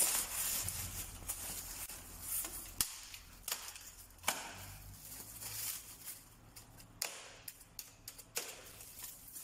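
Handling of the packaging that holds a stove's glass panes: a few sharp knocks and clicks, spaced a second or more apart, over faint rustling.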